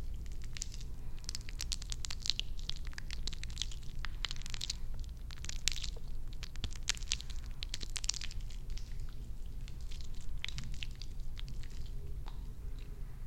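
Close-miked ASMR hair-care sounds: dense, crisp crackling and clicking, thinning out near the end, over a steady low hum.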